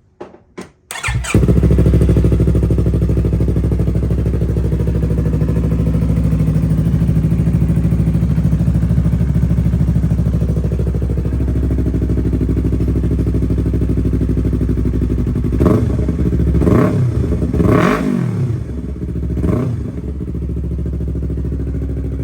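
2022 Yamaha R3's parallel-twin engine with a Yoshimura Race AT2 full-system exhaust starting after a few clicks of cranking, catching about a second in and settling into a steady burbling idle. About two-thirds of the way through it is blipped four times in quick succession, each rev rising and falling, then drops back to idle.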